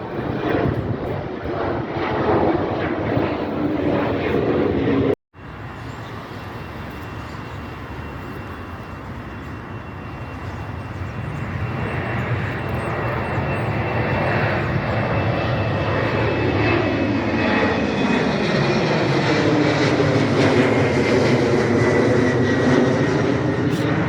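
Diesel locomotive engine running, with a steady high whine over it; the sound cuts out briefly about five seconds in. After that the whine slowly falls in pitch, and the engine note dips and then rises as it grows louder toward the end.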